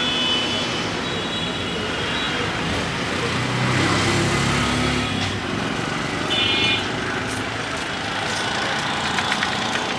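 Street traffic: steady road noise, with a vehicle rumbling past about four seconds in and a short high beep about six and a half seconds in.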